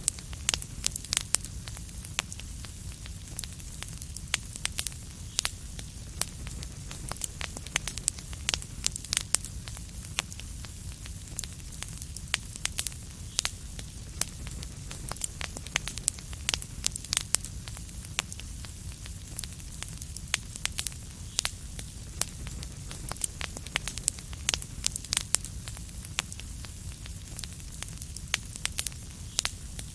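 Fireplace fire crackling: a steady low rumble of burning with many sharp, irregular pops and crackles, several a second.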